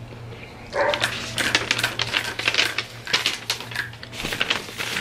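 Crunching of thin, crunchy baked potato sticks being chewed close to the microphone: a rapid, irregular run of sharp crackles starting about a second in.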